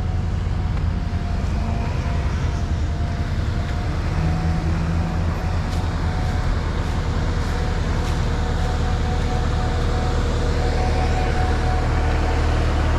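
Mini excavator's diesel engine running steadily at idle just after starting, a low even drone with a faint steady whine above it.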